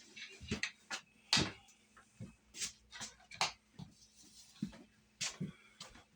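Scattered short knocks and clatters of kitchen things being handled, about eight in all, with quiet between them.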